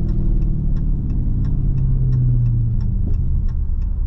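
Exhaust of a Dodge Scat Pack Widebody's 6.4-litre HEMI V8 with the mid mufflers deleted, heard from inside the car while driving; its drone slides slowly lower in pitch over the first couple of seconds as the revs ease off. A light steady ticking runs alongside, about three ticks a second.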